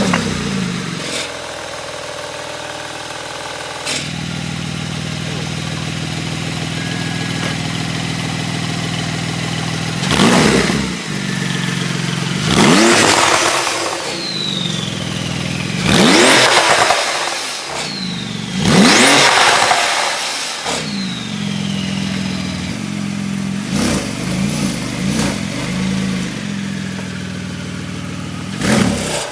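Porsche 911 GT2 RS's twin-turbo 3.8-litre flat-six starting up and settling into a steady idle, which rises a step about four seconds in. Three sharp blips of the throttle follow, each with a falling whistle as the revs drop, before it falls back to an unsteady idle.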